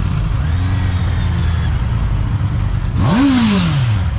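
Motorcycle engine running with steady wind rumble, then revving up sharply about three seconds in and winding back down.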